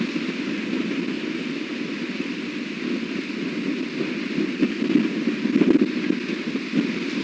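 Strong wind buffeting an outdoor nest-camera microphone: a steady rushing noise that swells in gusts, loudest about five to six seconds in.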